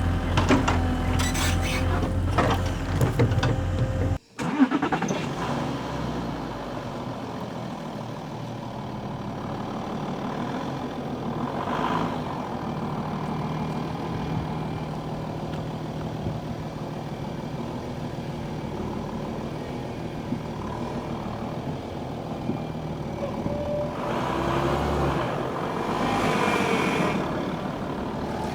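Vehicle engine running, louder at first, then cut off suddenly about four seconds in and followed by a steadier, quieter engine hum that swells louder near the end.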